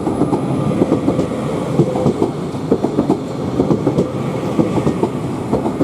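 Pair of Class 331 electric multiple units accelerating away, wheels clacking irregularly over the track beneath a steady running hum.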